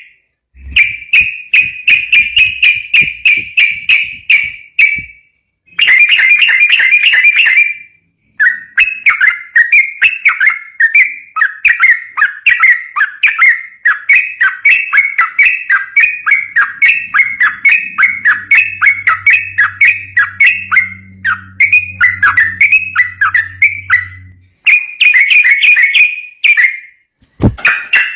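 Yellow-vented bulbul (trucukan) singing fast, continuous chattering song: runs of quickly repeated sharp notes lasting several seconds, broken by a few brief pauses.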